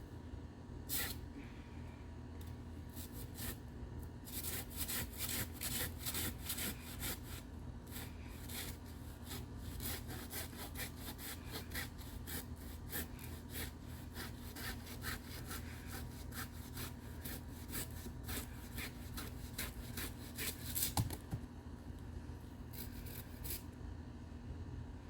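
Hand pruning saw cutting through the fibrous stalks of a bird of paradise plant in quick, rhythmic back-and-forth strokes, with a single louder knock near the end.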